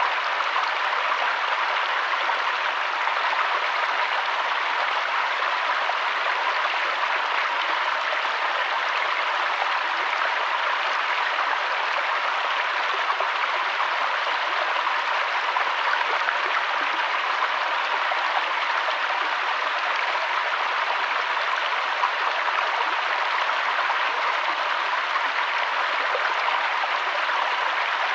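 River water flowing in a steady, unbroken rush, bright and hissy with little deep rumble.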